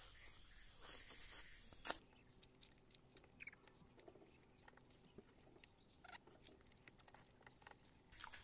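Close-up eating sounds: soft, wet chewing of a mouthful of rice and fish curry, with small irregular mouth clicks and smacks. A faint steady high hiss stops about two seconds in and returns near the end.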